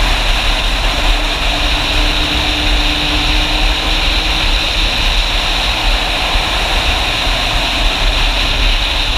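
Motorcycle under way: a steady rush of wind noise over the microphone with the engine running underneath.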